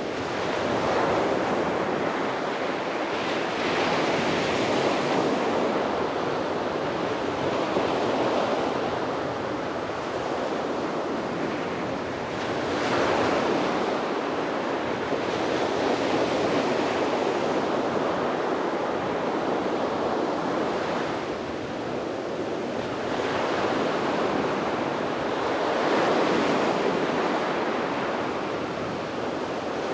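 Sea waves breaking and washing up on a beach, the surf swelling and easing every three to four seconds, with some wind on the microphone.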